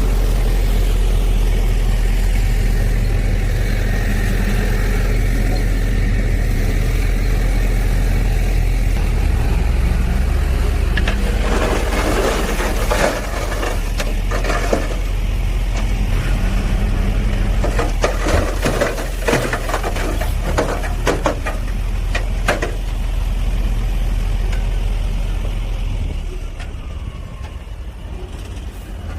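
Heavy diesel earthmoving machine running steadily, with two spells of sharp clattering and cracking about halfway through.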